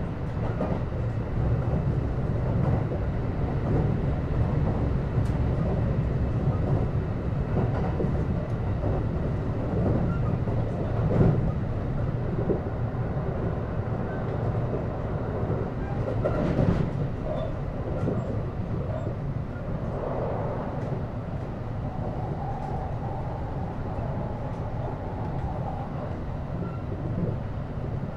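Kintetsu 9820-series electric train running, heard from inside the car: a steady rumble of wheels on rail, with sharp knocks about 11 and 17 seconds in. A faint steady tone joins the rumble for a few seconds later on.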